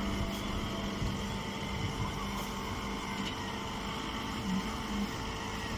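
Chopped-hay bagging baler machine running with a steady mechanical hum.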